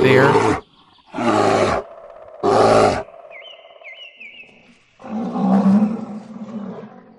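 Bear roaring: two short, loud roars about a second apart, then a longer, lower growl from about five seconds in.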